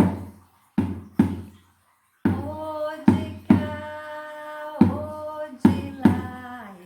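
Music: drum strikes in an uneven rhythm, joined a couple of seconds in by a long sung held note over the beats.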